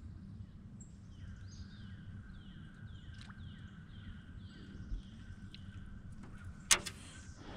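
Fishing reel being cranked: a faint steady whine with a regular rise-and-fall about twice a second as the line is retrieved. A single sharp click comes near the end.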